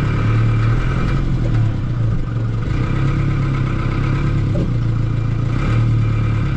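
Tractor engine running steadily as the tractor is driven, a constant low drone.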